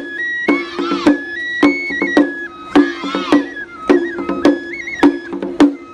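Japanese festival lion-dance music: a bamboo flute plays a melody in held notes over sharp, evenly spaced drum strikes, about two a second.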